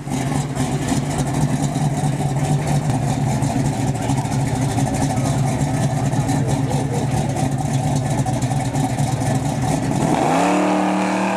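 Car engine held at a steady speed, then revving up with its pitch rising about ten seconds in.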